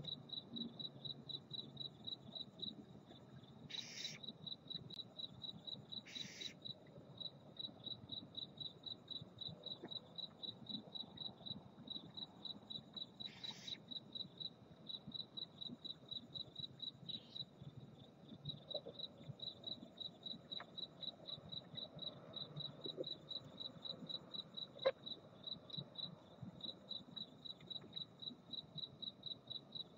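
Cricket chirping steadily in a rapid, even pulse. Three short hissing bursts come about 4, 6 and 13 seconds in.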